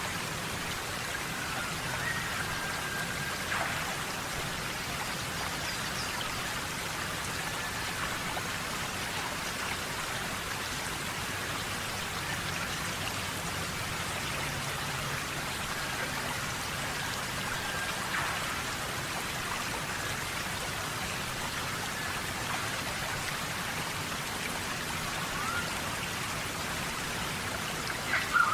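Steady tropical rain falling on rainforest foliage. Now and then a heavy drop lands with a sharp tap, the loudest near the end, and a few faint short whistles sound behind the rain.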